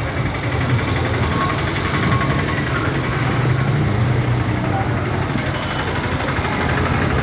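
Steady low rumble of a diesel local train, heard from on board.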